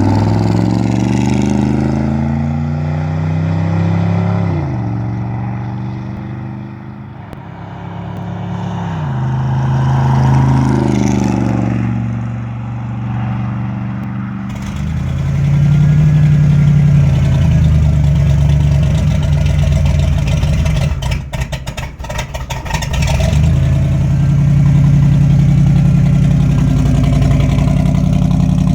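1974 Ford F-100's 390 FE V8 running through 2¼-inch dual exhausts with glass-pack mufflers. Its pitch climbs and drops sharply twice under throttle, then it settles into a steady, deep, loud rumble.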